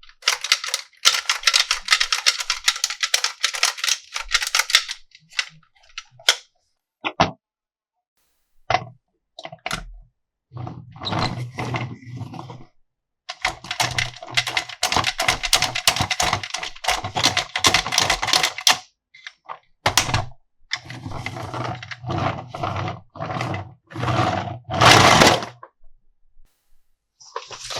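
Plastic toy parts being handled, clicking and rattling in fast runs separated by short pauses.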